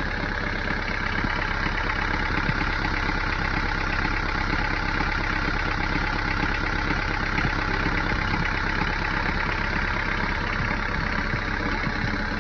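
A yacht's engine running steadily just after repairs, an even, rapid pulsing with a steady low hum.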